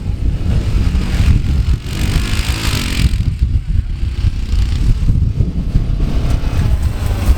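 Off-road vehicle running while being ridden, its engine noise mixed with heavy wind buffeting on the microphone; a brighter hiss swells for about a second a couple of seconds in.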